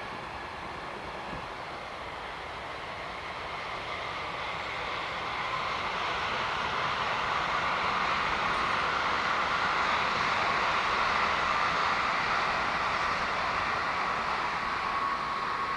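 Freight train passing on the line: the rolling noise of the wagons builds over several seconds, then runs on steadily.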